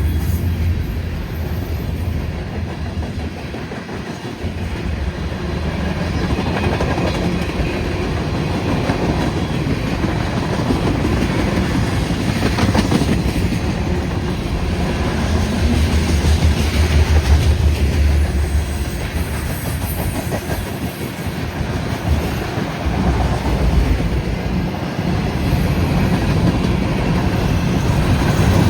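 Freight train rolling past close by: a steady, loud rumble of cars with the clickety-clack of wheels over the rail joints.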